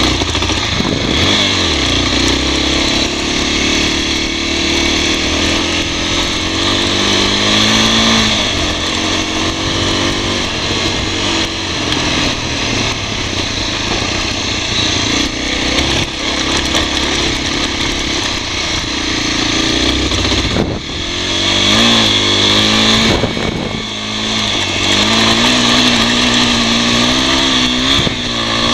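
Honda NX250's single-cylinder four-stroke engine running under way on a dirt trail. Its pitch climbs and drops repeatedly as the rider opens and closes the throttle through the gears.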